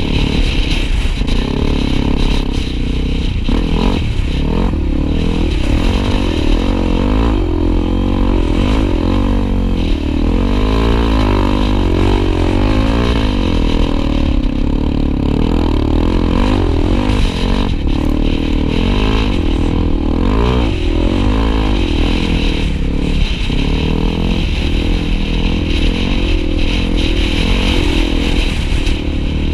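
Honda Tornado trail motorcycle engine running on the move, its pitch rising and falling continually with the throttle over a steady low rumble.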